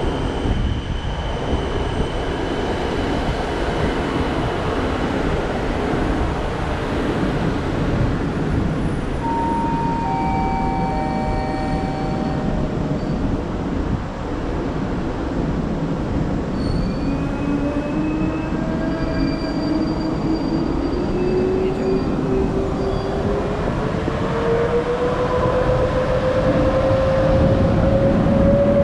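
Passenger train carriages rolling past on the rails: a continuous rumble with a few short squealing tones. In the second half a whine rises steadily in pitch and the noise grows louder as an EP09 electric locomotive draws in alongside.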